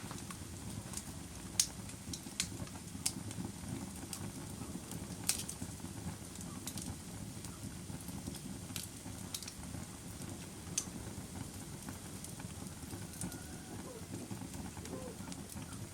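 Bonfire crackling: irregular sharp pops and snaps, about a dozen, over a steady low rush.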